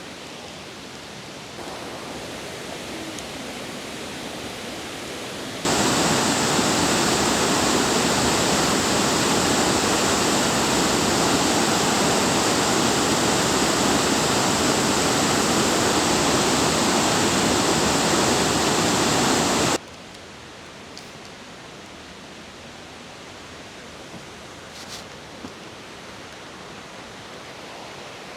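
Waterfall, a steady rush of falling water. It changes level in sudden steps: a little louder about a second and a half in, much louder and fuller about six seconds in, then abruptly back down about twenty seconds in, with a couple of faint ticks near the end.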